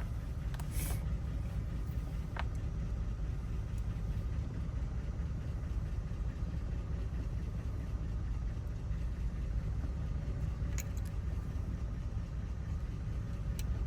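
A steady low rumble like an idling engine, with a few faint, brief clicks.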